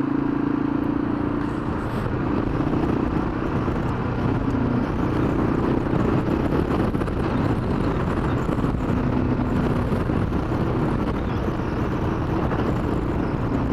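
Motorcycle engine running steadily at cruising speed, heard with wind and road noise while riding.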